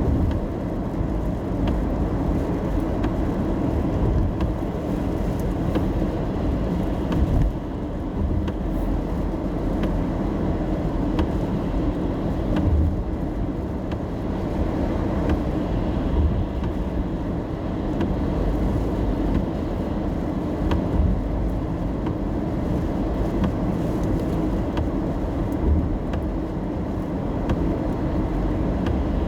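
Steady low road and engine rumble inside a car's cabin while driving in the rain, with faint scattered ticks of raindrops on the car.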